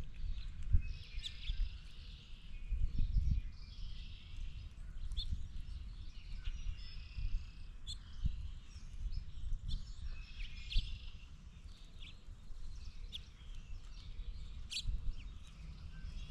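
Birds chirping and calling in short repeated notes, over a gusty low rumble of wind on the microphone, with a few sharp clicks.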